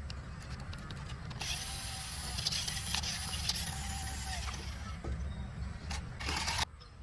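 Toy RC car's electric motor and plastic gearbox whirring in spurts, with a faint whine, over a steady low rumble; a short loud burst comes near the end.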